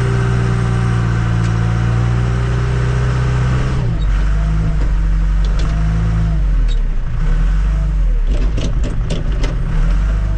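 Tractor-loader-backhoe's diesel engine running under load, heard from inside the cab. Its pitch drops about four seconds in, then rises and falls as the throttle is worked. A run of sharp knocks comes near the end.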